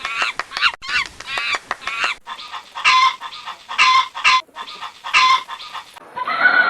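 Farm birds calling: a rapid run of short calls, then after an abrupt cut about two seconds in, three louder calls about a second apart. Near the end a different, drawn-out lower animal call begins.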